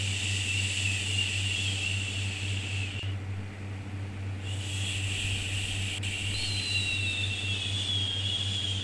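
A long, drawn-out 'shhh' shushing sound for soothing a baby, broken by a short pause about three seconds in before the next 'shhh' begins, over a steady low hum.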